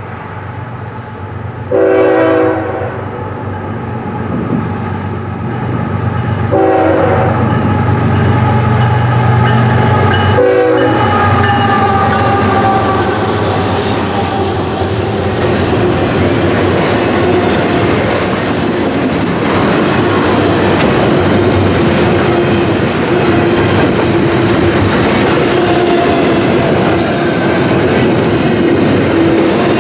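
A CSX diesel-electric train passing. Its horn sounds three times, the first blast the longest, over the locomotive's low engine drone, followed by a continuous loud rumble and clatter of the rail cars rolling by.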